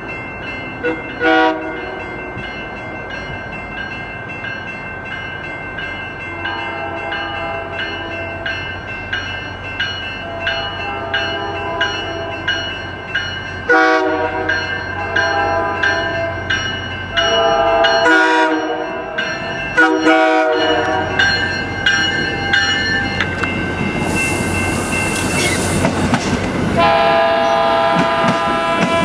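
Locomotive horns sounding a brief blast, then a long series of repeated short and long blasts, and another near the end, over the steady rumble of moving trains. A high hiss rises for a couple of seconds in the latter part.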